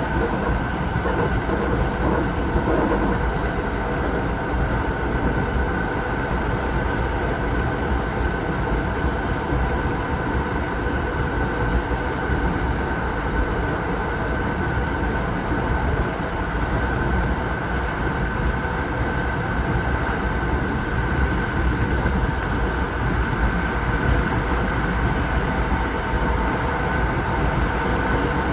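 Passenger train running at speed, heard from inside the carriage: a steady rumble of wheels on the track with a constant high hum over it.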